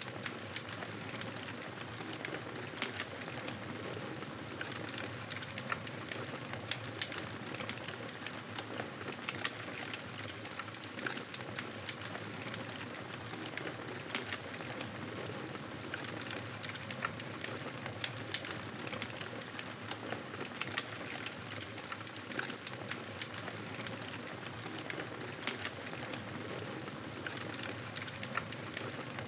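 Campfire crackling: burning wood giving frequent, irregular small pops and snaps over a steady hiss.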